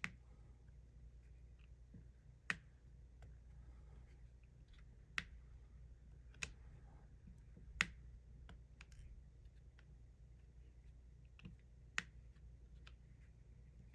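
Diamond painting drill pen tapping resin drills onto the sticky canvas: light, sharp clicks at irregular intervals, a few louder ones every couple of seconds, over a faint low hum.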